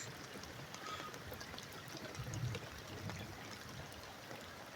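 Rain easing off: water trickling and pouring steadily, with many scattered drips.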